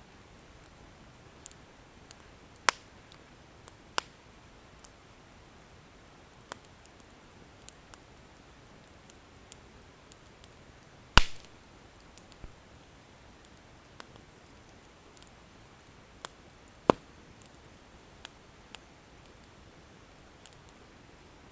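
Wood bonfire crackling: sharp, irregular pops and snaps of burning firewood over a faint steady hiss, with four strong pops and the loudest about halfway through.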